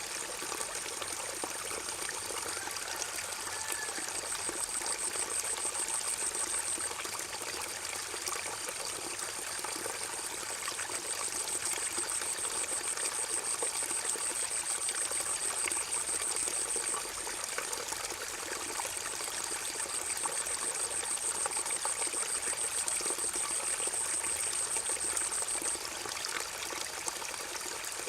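Forest river flowing: a steady rush and trickle of water. Over it, a high, rapid trill comes and goes in several long bouts lasting a few seconds each.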